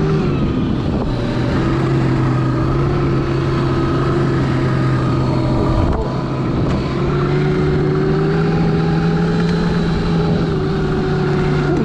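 Electric snowbike with a 72 V battery and a TrackNGo snow track kit running through deep powder: a steady motor whine with the track running underneath. It dips briefly about six seconds in, then picks back up.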